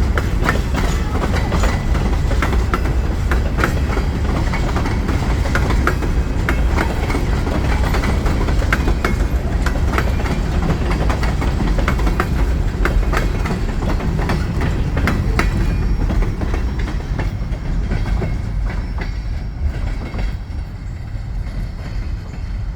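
Indiana & Ohio Railway freight cars rolling past, wheels clicking over rail joints over a low rumble. The clicking stops about two-thirds of the way through and the rumble fades as the train goes by.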